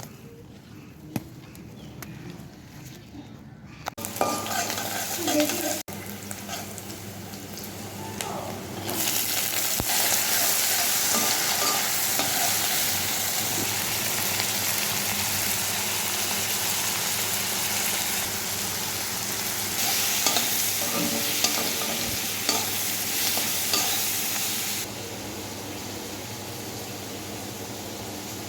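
Leafy greens sizzling as they fry in hot oil in a pan while being stirred. The sizzle starts about four seconds in, grows louder, and drops back near the end.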